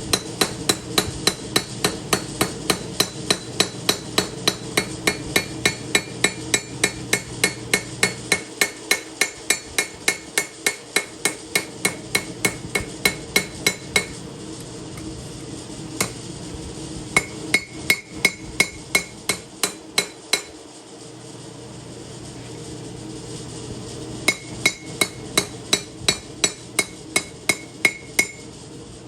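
Hammer forging steel on an anvil for a chef knife blade: quick, even blows about three a second, each with a ringing note. They come in runs broken by short pauses. A steady low hum runs underneath.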